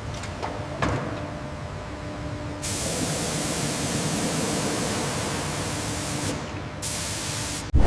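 A few short clicks in the first second, then a pressurized spray hissing from about two and a half seconds in, stopping briefly near the end and starting again.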